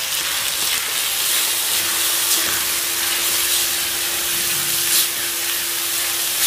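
Wet masala paste sizzling in hot oil with sprouted mung beans in a steel pot, stirred with a silicone spatula: a steady hiss, with a faint steady hum underneath.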